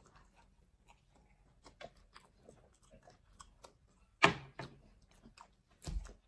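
Close-miked eating sounds of people chewing pizza: small wet mouth clicks and smacks. A louder sharp sound comes about four seconds in, and a dull thump near the end.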